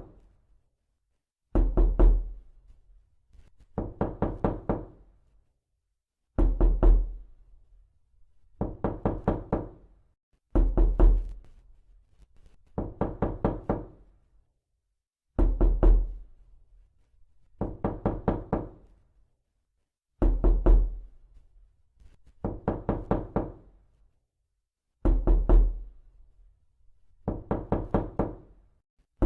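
Knocking: quick bursts of four or five raps, repeated about every two seconds with silence between the bursts, some bursts louder than others. It is a looped prank knocking sound meant to pass for someone at the door.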